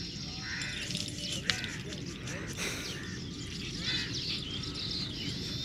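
Birds chirping and calling over a steady low background rumble.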